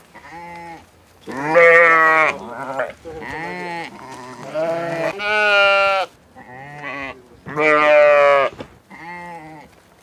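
Sheep bleating: a run of about eight quavering bleats of differing pitch from several animals, a few long, loud ones among shorter, quieter ones.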